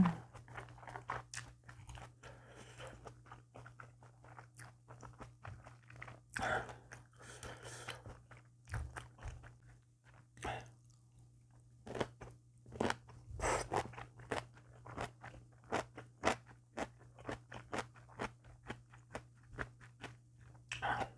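A person chewing and crunching food close to the microphone: many irregular, short crunchy bites and mouth sounds, over a faint steady low hum.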